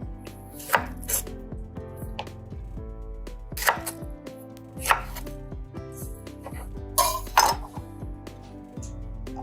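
Kitchen utensil striking hard kitchenware during food preparation: about six sharp knocks at irregular intervals, with the loudest pair near the end, over soft, steady background music.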